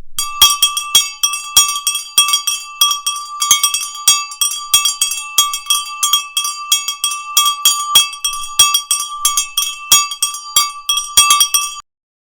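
Rapid, irregular metallic strikes, several a second, each leaving a bell-like ring at the same fixed pitches, loud throughout. The strikes cut off suddenly near the end.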